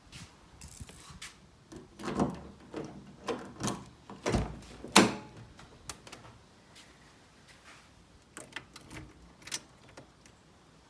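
Car door and latch handling: a cluster of knocks and clunks between about two and five and a half seconds in, the loudest near five seconds, with a few lighter clicks later.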